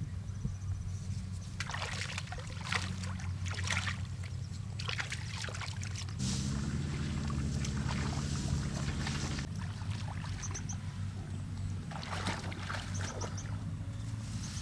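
A small engine running steadily at a low hum. Irregular bursts of rustling, hissing noise come over it several times.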